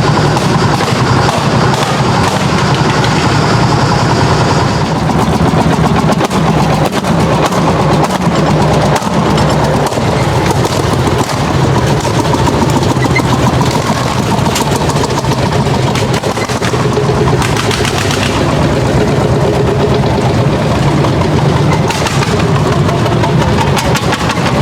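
Old tractor engine running hard under load while pulling a plough, with a rapid, even exhaust beat and no let-up.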